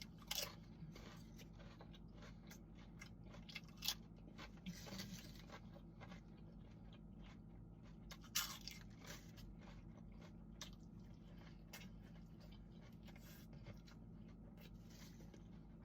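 A person biting and chewing crunchy food close to the microphone, with scattered crunches; the loudest come about half a second, four seconds and eight seconds in.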